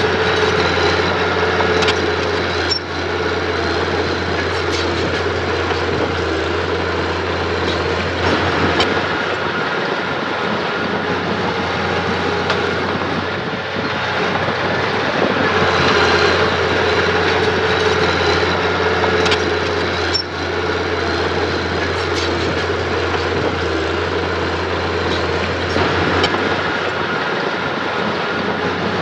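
Heavy machinery diesel engine running steadily under work, with occasional short sharp metallic clanks.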